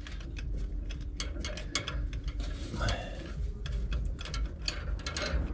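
Hand ratchet wrench with a swivel clicking in quick, uneven strokes as it backs out a transmission bolt.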